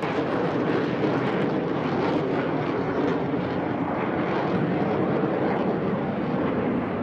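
Blue Angels F/A-18 jet engines roaring in flight, a loud, steady rushing roar that jumps up in level right at the start.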